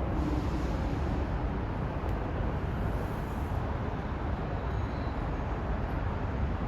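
Steady low rumble of moving vehicles, even throughout with no distinct clunks, horns or squeals.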